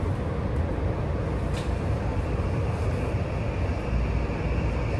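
Steady low rumble and rolling noise inside the passenger car of a JR West 323 series electric train running on the track.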